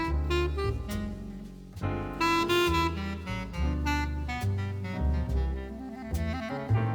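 Small-group jazz recording: an alto saxophone plays a melodic line over double bass, piano and drums.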